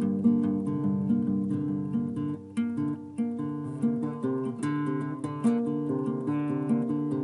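Acoustic guitar playing an original instrumental piece, notes plucked in a steady rhythm.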